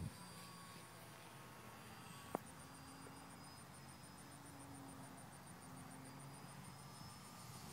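Near silence, with the faint hum of distant radio-controlled model airplane motors. There is a single sharp click a little over two seconds in, and a faint high-pitched ticking at about seven ticks a second after it.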